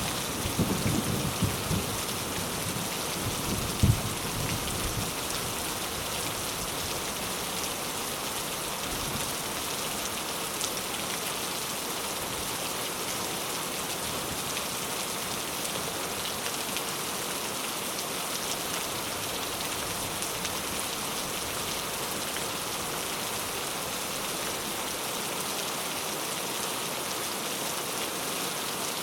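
Heavy rain falling steadily on a surface, an even hiss. A low thunder rumble dies away in the first few seconds, with a sharp knock about four seconds in.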